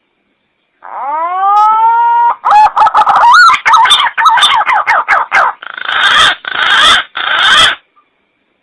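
Green pigeon (punai) calling: a rising whistle that levels off, then a run of quick wavering whistled notes, ending in three harsh, grating notes.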